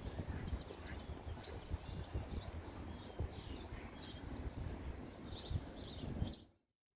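Small birds chirping in short, scattered calls over outdoor background noise and a low, uneven rumble. The sound cuts off abruptly near the end.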